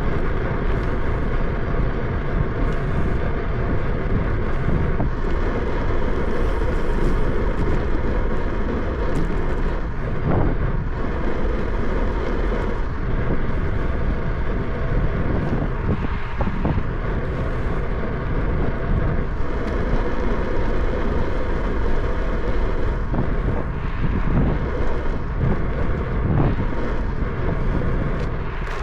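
Steady wind rushing over the microphone of a camera on a moving bicycle, swelling and dipping slightly.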